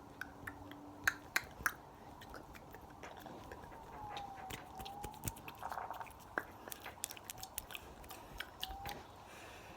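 Close-miked ASMR mouth sounds: quick, irregular wet clicks and smacks, with three louder ones about a second in. Behind them, a faint siren wails up and down.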